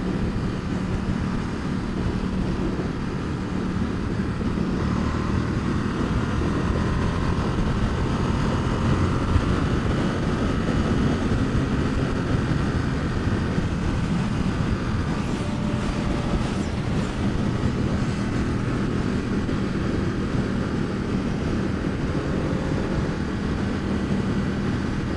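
Ducati XDiavel's 1262 cc Testastretta DVT V-twin running at a steady cruise-control speed, its drone holding an even pitch, under wind and wet-road noise.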